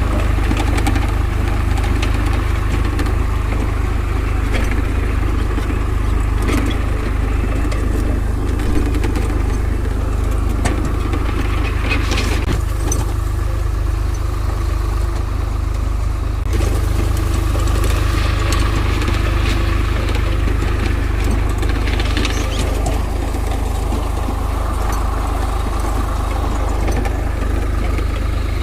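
Swaraj diesel tractor engine running steadily, pulling a seed drill that sows paddy.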